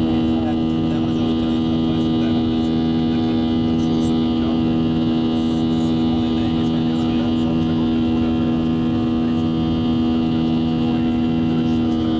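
Steady hum from a Boeing 737, holding two strong pitched tones over an even noise, with a low pulse repeating at a steady rhythm.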